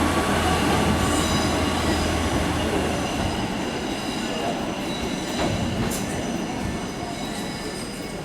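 Passenger train moving through a station platform, with high steady squealing tones from the wheels and a low hum that stops about three seconds in. A few sharp clicks of wheels over rail joints come in the second half, and the sound slowly fades.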